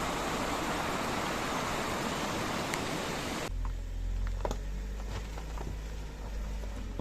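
Stream water rushing steadily, cut off abruptly about halfway through. Then comes a steady low rumble of a car on the move, with scattered light clicks and rattles.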